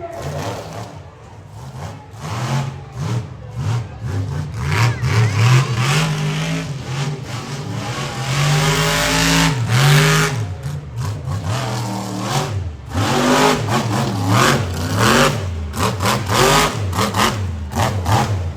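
Monster truck engine revving hard, its pitch climbing and dropping again and again as the throttle is worked.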